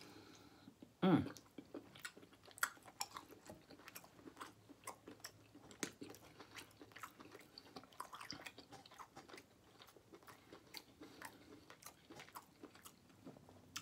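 A man chewing a mouthful of smoked turkey leg close to the microphone: irregular wet clicks and smacks of the mouth and teeth, with a short falling vocal hum about a second in.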